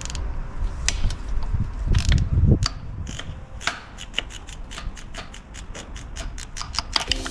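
Hand tools working on Toyota 2U engine parts during reassembly: metal rubbing and scattered clicks, with a brief low rumble about two seconds in. From about halfway through comes a run of even, sharp metal clicks, four or five a second, as from a ratchet.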